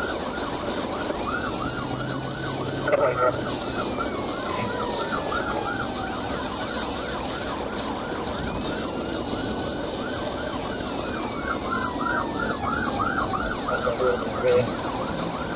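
Police car siren in a fast yelp of about three to four rises a second, with a slower wailing siren sweeping over it, above steady road and engine noise of a vehicle in pursuit.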